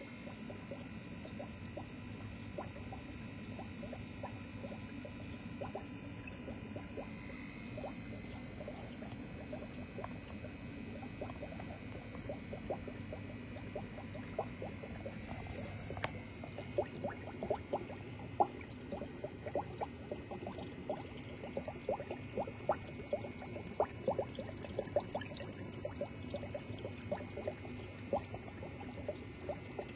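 Water bubbling and popping in a guppy tank over a steady low hum, the pops coming more often and louder from about halfway through.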